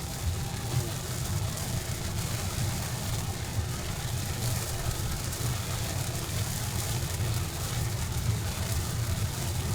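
Steady low engine rumble with an even hiss over it, like a vehicle running in rain.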